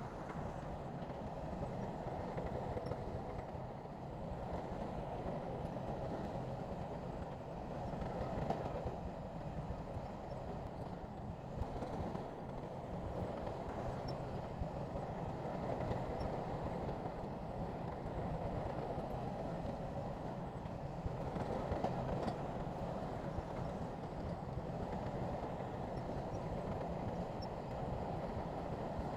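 Heavy diesel construction machinery running steadily at work, a continuous low rumble.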